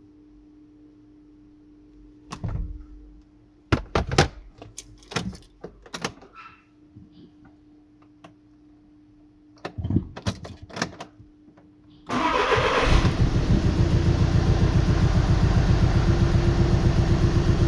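A few clicks and knocks over a faint steady hum, then about twelve seconds in a Volkswagen engine cranks, catches at once and runs steadily: it now starts after the P0651 sensor reference voltage 'B' open-circuit fault was repaired.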